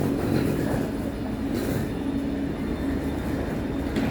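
A train running steadily, with a low rumble and a constant hum.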